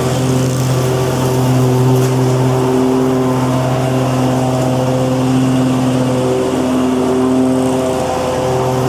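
Lawn mower engine running steadily at a constant speed, a continuous hum whose pitch wavers slightly.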